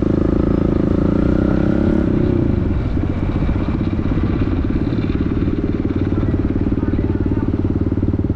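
Pit bike's small engine idling steadily, with a brief louder, shifting stretch in the first two seconds or so.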